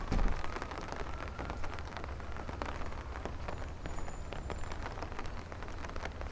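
Steady rain falling, with many small drop impacts over a low, steady rumble.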